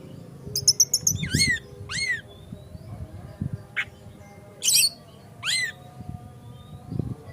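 Oriental magpie-robin (kacer) singing: a quick run of high notes, then a string of loud swooping whistles and harsh calls, each arching up and sliding down, about one every second.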